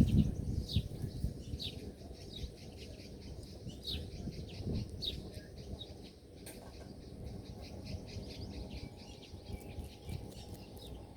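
Small birds chirping: short chirps that slide downward in pitch, repeated about once a second, over many fainter chirps. A low rumble fades out in the first second.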